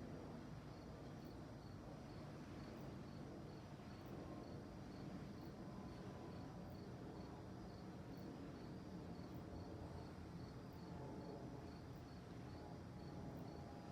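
Crickets chirping in a steady, even rhythm, a few chirps a second, over a faint low, steady rumble.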